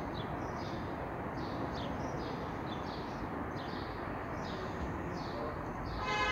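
Birds calling with short downward-sweeping chirps, about two a second, over a steady outdoor background hiss. Just before the end, a train's horn starts: a loud held note of several tones at once.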